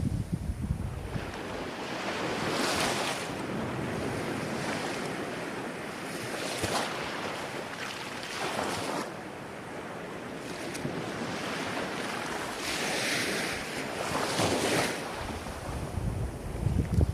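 Ocean waves breaking and washing in, swelling in surges every few seconds. Wind buffets the microphone with a low rumble at the start and again near the end.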